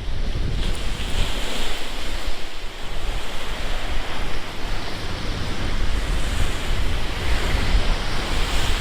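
Rough sea surf breaking and washing in along the shore, its hiss swelling about a second in and again near the end. Gusty wind buffets the microphone with a heavy rumble. The seas are stirred up by a hurricane passing offshore.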